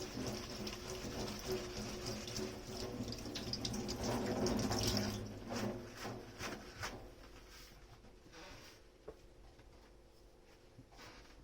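Water running from a kitchen tap into a sink, cutting off about five seconds in, followed by a few light clicks and brief scrubbing or wiping strokes.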